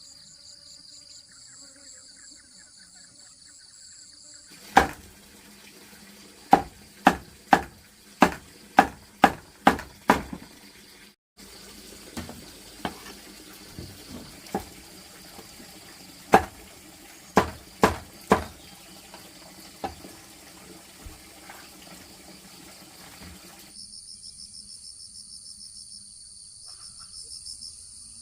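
Insects chirring steadily, a high pulsing drone. For most of the middle this gives way to a rushing, water-like hiss with a series of sharp knocks, about two a second at first, then more scattered.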